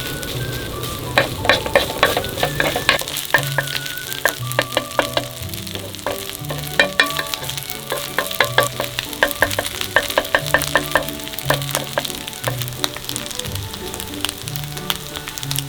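Fried rice sizzling in a pan while a spatula stirs it, with frequent quick clicks and scrapes of the utensil against the pan.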